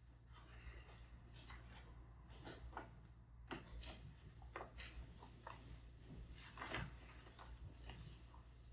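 Faint, scattered small clicks and rustles of objects being handled in a quiet room, with one slightly louder tap a little under seven seconds in.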